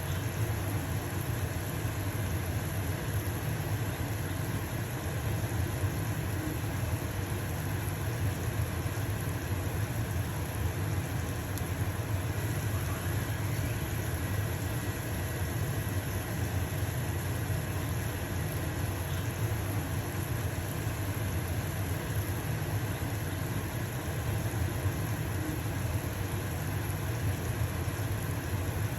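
Stove-top range hood fan running steadily with a low hum, together with the sizzle of a pancake frying in a pan.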